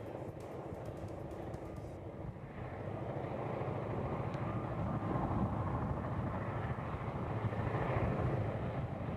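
EMD diesel locomotives working a train, a steady rumbling engine and rolling noise that grows louder about three seconds in.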